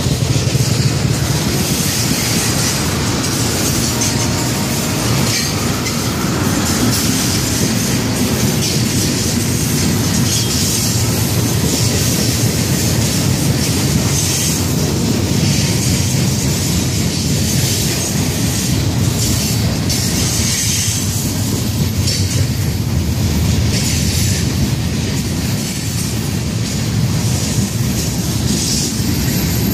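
Freight cars of a slow-moving Florida East Coast Railway freight train rolling past close by, their steel wheels running steadily on the rails.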